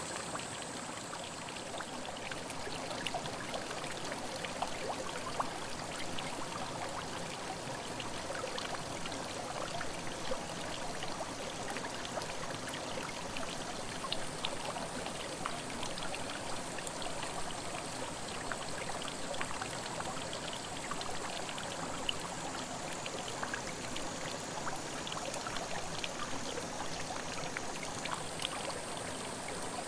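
Headwater mountain stream babbling and trickling steadily, with many small splashes and drips.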